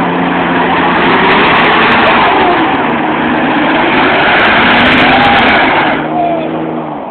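Two two-wheel-drive Ford pickups, one with a 300 straight-six and one with a 5.4 Triton V8, held at high revs in a truck pull, their rear tires spinning and digging into the ground. The sound is very loud and eases off about six seconds in.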